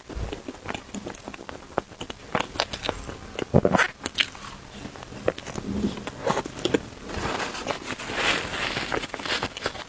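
Close-miked eating: bites and chewing with many short, crisp clicks and crackles, and a longer hiss-like stretch near the end.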